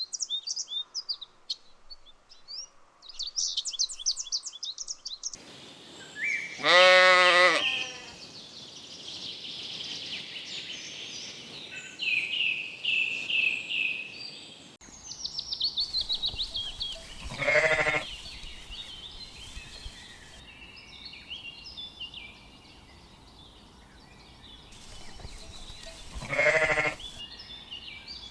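Sheep bleating three times, each bleat about a second long, the first the loudest. Birds chirp and sing in quick high trills between the bleats.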